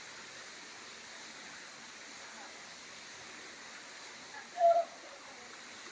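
Steady rush of running water from a forest stream or waterfall, with one brief, loud pitched call about four and a half seconds in.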